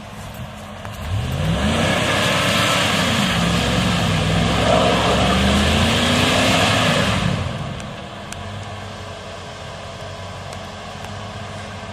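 Off-road 4x4's engine revving hard in rising and falling surges for about six seconds while the vehicle fails to climb a muddy hill, then dropping back to a steady idle. The onlookers take this as the driver giving up, with the vehicle stuck.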